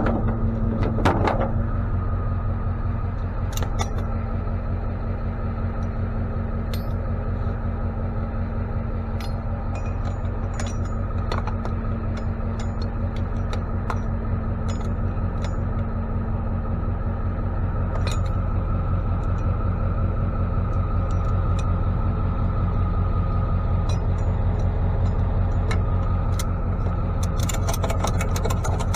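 Tow truck's engine running steadily with a low hum, with scattered light clicks and ticks over it.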